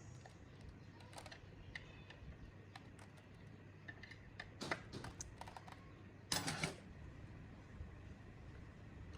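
Scattered light clicks and taps of small parts being handled during a workshop restoration, with a brief louder rustling scrape about six seconds in.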